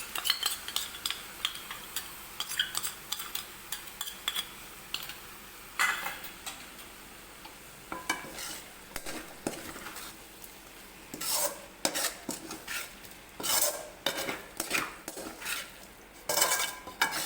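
A metal spoon stirring fried chicken in sauce in a hot pan: repeated scrapes and clinks against the pan, coming thicker in the second half, over a faint sizzle.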